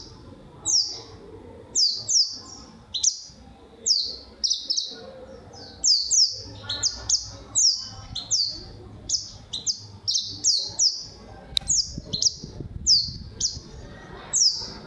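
A white-eye (pleci) calling steadily: short, high chirps that slide downward, often in quick clusters of two to four, repeated about every half second.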